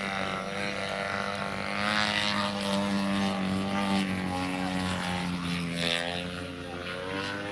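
Engine of a radio-controlled propeller airplane in flight, a steady drone whose pitch wavers slightly as it manoeuvres.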